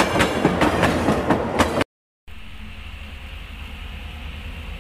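Fairground kiddie ride train rolling on its narrow track, its wheels clicking over the rail joints about four times a second. It cuts off suddenly, and after a short gap a quieter, steady low engine rumble from an excavator follows.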